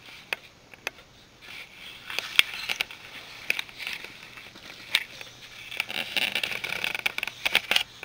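Scattered clicks and rustles of a handheld camera being moved and handled close to its microphone, over a breathy hiss that swells twice, each swell lasting a couple of seconds.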